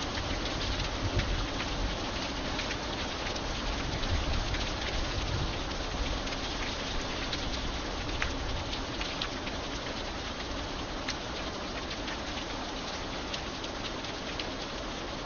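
Steady rain: a dense, even hiss with many individual drops ticking sharply through it. There is a faint low rumble in the first few seconds.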